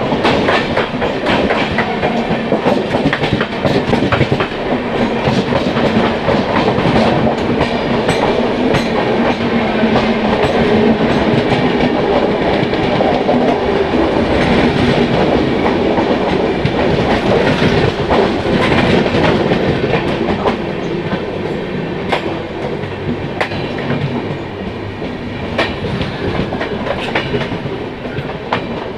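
Indian Railways express trains running past each other on adjacent tracks: a loud, steady rumble of wheels and coaches with rapid clickety-clack over the rail joints. The noise eases a little about twenty seconds in.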